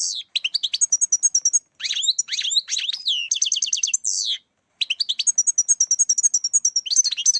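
European goldfinch song: rapid, high-pitched twittering trills and sweeping notes in several bursts, with brief pauses between phrases.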